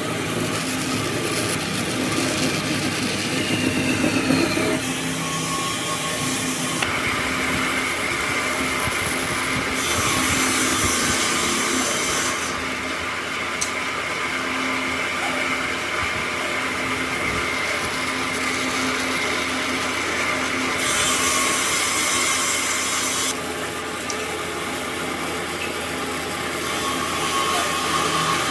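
Power tool running against wood, with a steady motor whine under the noise of the cut; the sound changes abruptly several times, as between separate clips of the work.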